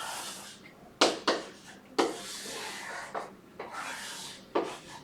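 Pen or chalk writing on a board: about half a dozen quick strokes, each starting sharply and trailing off in a scratchy hiss.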